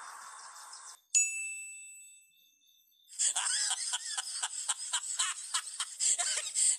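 A shout trails off in the first second. Then a bright bell ding rings out and dies away. From about three seconds in, rapid, rhythmic laughter begins.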